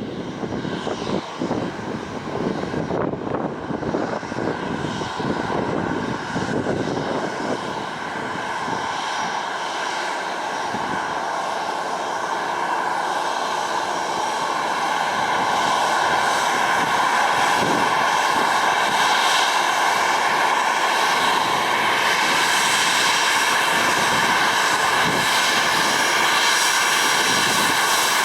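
Boeing 737-800's CFM56 jet engines whining, the steady high tones growing louder over the first half and then holding steady, with wind buffeting the microphone at first.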